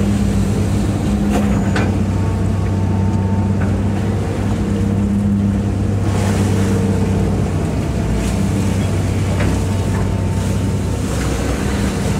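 Hitachi EX200-5 excavator's six-cylinder Isuzu diesel engine running steadily, heard from the cab, with a few light knocks and clatters from the machine at work.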